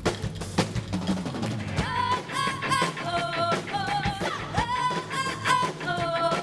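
Pop-rock song with a drum kit beat and guitar; about two seconds in, long held melody notes with little pitch bends come in over the band, sung or played.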